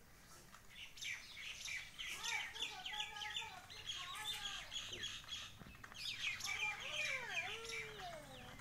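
Small birds chirping: many short, high chirps in quick succession, starting about a second in and thinning out near the end.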